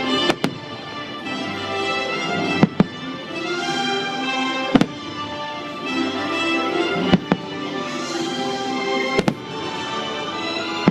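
Fireworks bursting with sharp bangs, mostly in close pairs about every two seconds, over loud orchestral show music.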